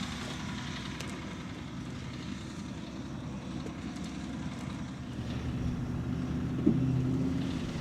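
A vehicle engine running steadily with a low hum, growing a little louder a couple of seconds before the end.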